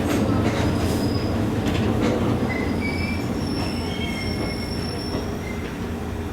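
Train running on rails with a steady low rumble and thin, high wheel squeals from about two seconds in, the rumble slowly easing as it slows for a station stop.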